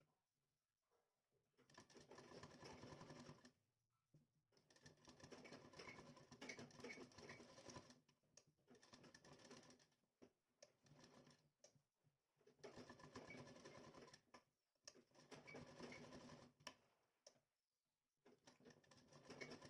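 Sewing machine stitching along a blouse neckline. It is heard faintly, running in a series of short runs of a second or three each, with brief pauses between them.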